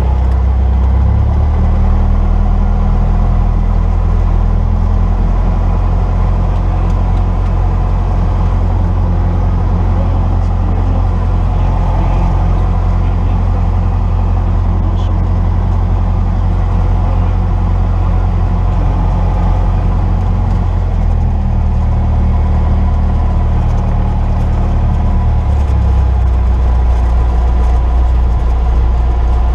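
Cessna 172's piston engine and propeller running steadily from inside the cockpit, its low drone shifting in pitch a few times as the power setting changes.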